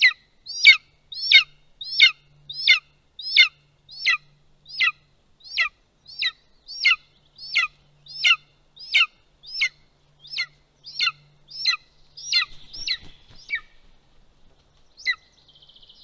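Golden eagle chick begging: a loud, evenly repeated call that sweeps downward, about one and a half a second. Near the end the calls crowd together with a brief rustle of movement, then stop after one last call.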